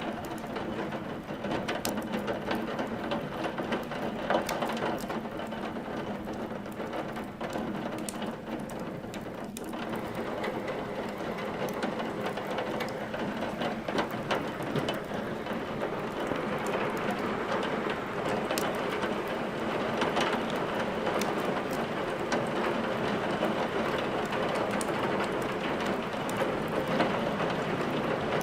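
Steady rain hiss mixed with scattered sharp crackles and pops of burning firewood in a fireplace.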